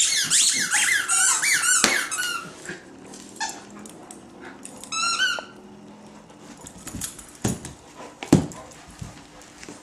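Rubber squeaky dog toys being squeezed over and over: a fast run of squeaks for the first two seconds or so, a shorter run about five seconds in, then a few knocks near the end.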